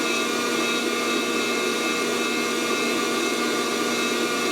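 Fresh Roast SR 800 hot-air coffee roaster running: its fan blowing hot air through the beans in a steady rush with a constant motor whine, mid-roast before first crack.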